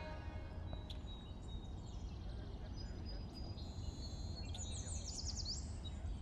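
Quiet room ambience with a low steady hum and faint bird chirps, including a quick run of chirps about five seconds in.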